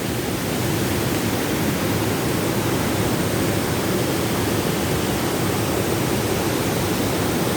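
Steady roar of rushing water from a waterfall in full flood, the cascade running high after heavy rain.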